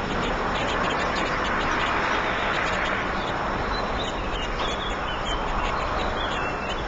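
Short, high chirping bird calls, several times, over a steady hiss.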